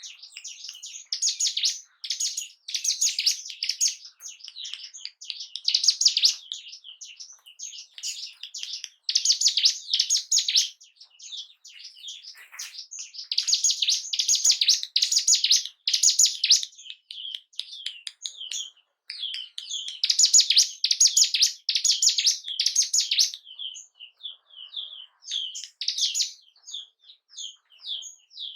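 Ciblek gunung (a prinia) singing: rapid, high-pitched chirping phrases in bursts of a second or two with short pauses between, used as a lure song to stir other birds of its kind.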